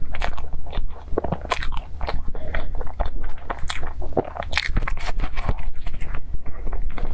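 A person biting into and chewing crisp-topped cream puffs: a run of small, irregular crunches and crackles.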